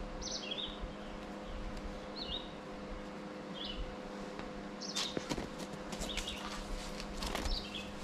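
A bird repeating a short, high chirping call every second or so, over a faint steady hum. From about five seconds in, a run of sharp clicks and rustles joins it.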